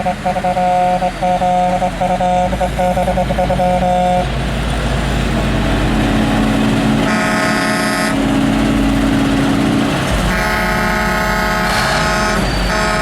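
Semi-truck air horns blowing in long blasts: one for about the first four seconds, a short one around seven seconds in, and another starting near the end, over a low rumble of truck engines.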